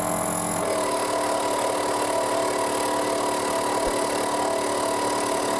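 Workshop power tool running steadily with a constant hum; the sound changes slightly about half a second in.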